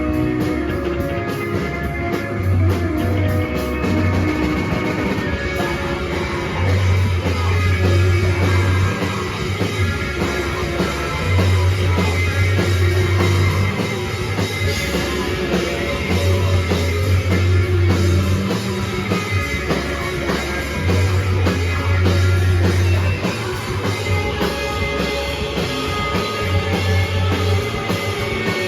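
A rock band playing live in an instrumental passage: drum kit, guitars and bass, the bass holding long low notes that change every few seconds.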